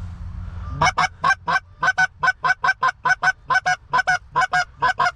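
Goose call blown in a fast, even run of short honks and clucks, about five a second, starting about a second in, to coax geese coming in to land.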